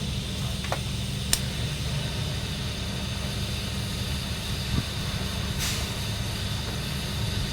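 Welding machine running with a steady low drone. A sharp click comes about a second and a half in, and a short hiss near the six-second mark.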